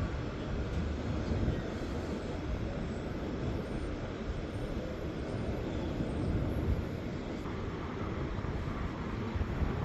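A steady low rumble with no distinct knocks or changes in pitch.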